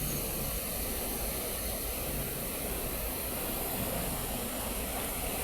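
Steady hiss of background noise, even throughout, with no distinct knocks, tones or changes.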